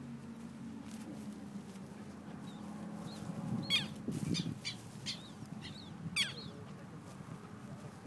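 A bird giving a series of short, harsh calls, about half a dozen in quick succession from about three and a half to six seconds in, over a low steady hum that fades in the first half.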